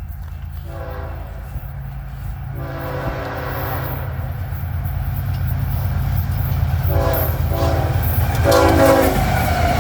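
Air horn of a BNSF GE ES44C4 diesel locomotive sounding a series of chord blasts: a short one, a longer one about three seconds in, then three more close together near the end. Under it, the low rumble of the approaching diesel engines grows steadily louder.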